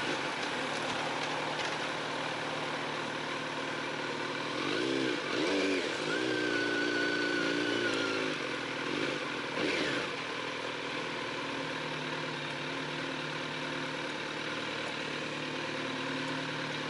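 Kawasaki Z900RS inline-four running through an aftermarket Maverick silencer at low speed. The engine revs up and drops back a few times around the middle, then settles to a quieter, steady run.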